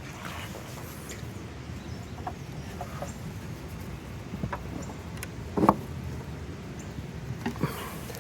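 Wooden beehive boxes and frames being handled: scattered light clicks and one louder knock about five and a half seconds in, over a steady low hum.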